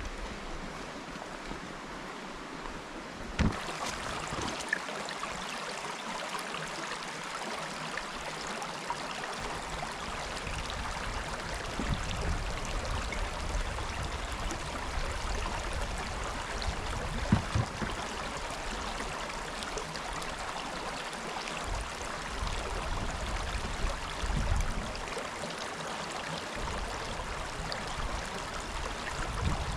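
Steady rushing of a river's flowing water, with occasional low rumbles from wind on the microphone and a couple of short knocks.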